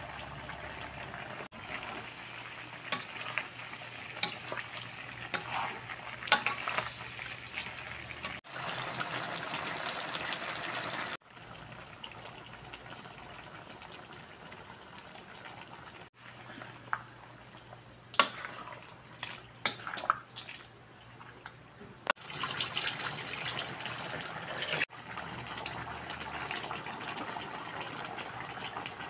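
Chicken, pineapple and sauce simmering in a wok with a steady sizzling, bubbling hiss, in several short clips joined by abrupt cuts. About two-thirds through comes a run of sharp clicks and knocks from stirring in the pan.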